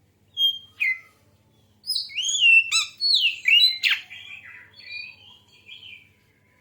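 Oriental magpie-robin (kacer) singing. Two short whistles come first, then a loud run of varied sliding whistles and chirps that trails off into softer warbling notes.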